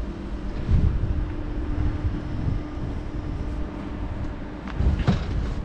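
TGV high-speed electric train at the platform, a steady low hum with rumble as it gets ready to leave. Low gusts of wind buffet the microphone.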